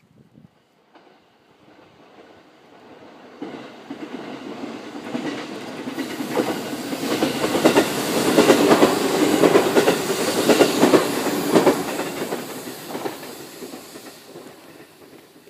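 JR Central 313 series electric train passing at speed, wheels clicking over the rail joints in a quick rhythm. It grows louder from about three seconds in, is loudest in the middle, and fades away near the end.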